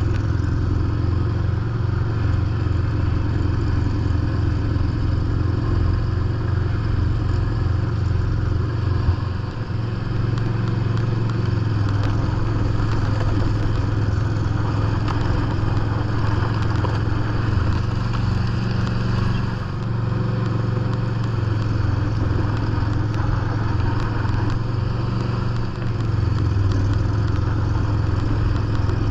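John Deere lawn tractor engine running steadily under load, driving a 44-inch snow blower through heavy compacted snow, with the clatter and scrape of the blower mixed in. The engine sound dips briefly a few times.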